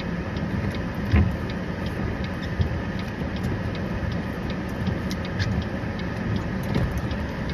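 Steady low rumble of a running vehicle engine, with faint scattered small clicks and a soft knock about a second in.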